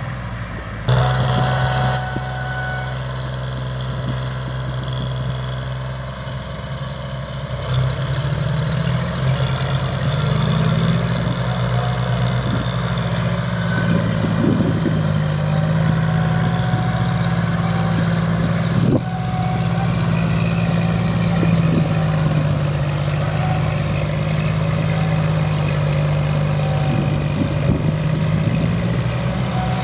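Diesel tractor engine running steadily, as when pulling a loaded sugarcane trolley, its pitch rising a little about eight seconds in. The sound shifts abruptly about a second in and again a little before two-thirds of the way through.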